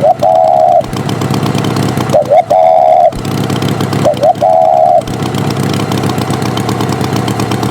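Steady engine drone of a cartoon farm tractor. Over it, a short warbling tone, led by a quick chirp, repeats three times about every two seconds in the first five seconds, then the engine runs on alone.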